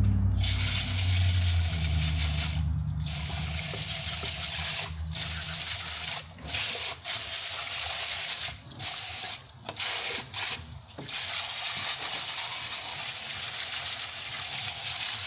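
Garden hose spray jetting onto an engine bay to rinse off wash and grime, a steady hiss that stops and restarts briefly several times as the spray is shut off and moved. A low hum runs under it for the first few seconds.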